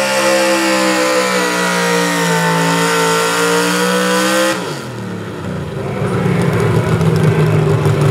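Pulling truck's engine held at full throttle at high revs, its pitch wavering slightly as it drags the sled. About four and a half seconds in, the throttle drops off suddenly and the revs fall away. The engine then picks up again at a lower, rougher pitch.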